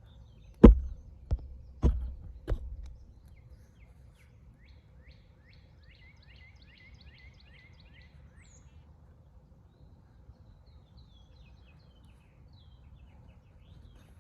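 Four sharp knocks about half a second apart in the first few seconds, then a songbird singing a quick run of repeated chirps for about four seconds, with other scattered bird calls over a low outdoor rumble.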